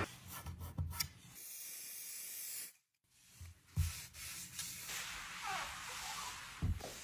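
Handling and rubbing noises as kitchen items are organized: a few light knocks, then a steady hiss that cuts off abruptly, followed by rustling and rubbing with two soft thumps.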